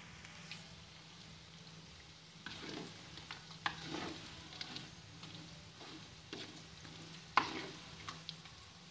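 Diced potatoes sizzling in hot oil in an aluminium wok while a wooden spatula stirs them. Scattered scrapes and knocks of the spatula against the pan come through, the loudest about seven and a half seconds in.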